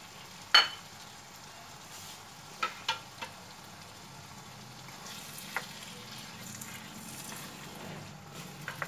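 Minced meat (keema) frying in a karahi with a steady sizzle. A cooking utensil knocks sharply against the pan several times; the loudest knock, about half a second in, rings briefly.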